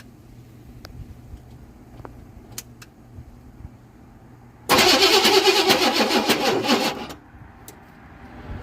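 Starter cranking a squarebody Suburban's engine for about two seconds, starting about halfway through, then stopping without the engine catching. The battery, on a jump, is weak.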